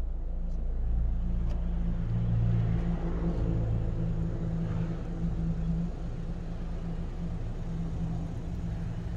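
Chevrolet Aveo's engine idling, a steady low rumble and hum heard from inside the car, a little louder between about one and six seconds in.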